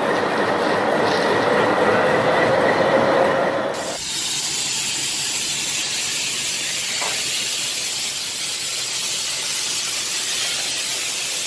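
Diesel locomotive rolling slowly past, its wheels giving a steady high squeal. About four seconds in, the sound cuts abruptly to a steady hiss.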